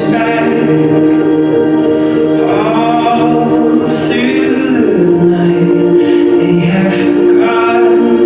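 A song with singing: long held sung notes that change pitch about three seconds in and again about five seconds in.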